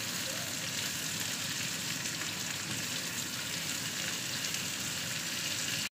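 Carrot strips, green beans and pork sizzling steadily in hot oil in a wok as they are stir-fried with a silicone spatula. The sizzle cuts off suddenly at the very end.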